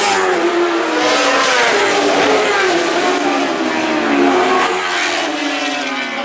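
Superbike racing motorcycles at full race speed, several engines at once, their pitch rising through each gear and dropping at the shifts.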